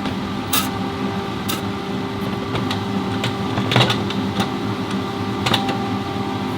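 Scattered sharp metal clicks and clinks of tools and parts being handled during an automatic transmission repair, over a steady machine hum. The loudest clink comes a little before the middle.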